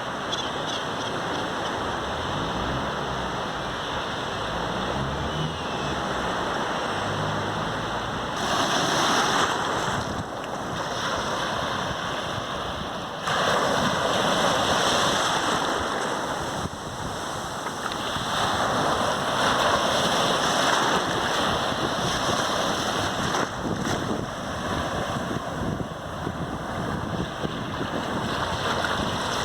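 Sea surf washing onto a sandy beach, a steady rush that swells as waves break, with the loudest breaks about a third of the way in, near the middle, and around two-thirds through.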